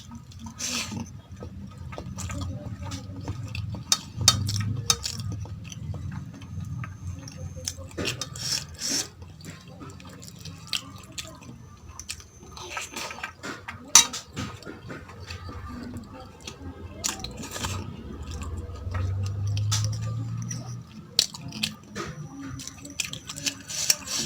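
Close-miked eating: a person chewing mouthfuls of mutton tahari rice with gravy, with wet mouth sounds and scattered sharp clicks, the loudest about halfway through.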